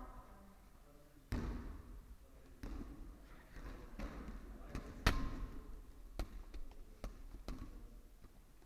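Dodgeballs thrown and bouncing, a run of sharp separate smacks off the floor, walls and players, the loudest about five seconds in, with faint voices and shouts of the players between them.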